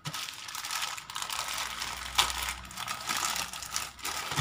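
A delivery parcel's plastic packaging being opened by hand, crinkling and crackling with many small clicks and rustles.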